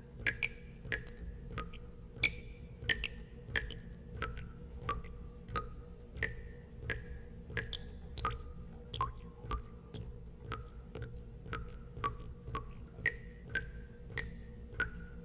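Water drops falling into water, each a sharp plink with a short ringing tail that slides in pitch, two or three a second at an uneven pace, over a low steady rumble.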